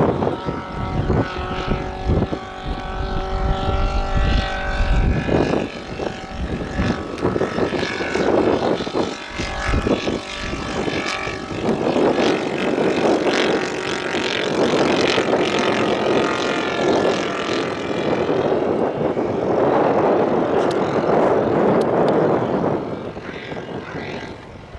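Propeller-driven radio-controlled scale model aircraft flying, its engine and propeller tone holding for a while and then shifting in pitch as it passes. Wind buffets the microphone now and then.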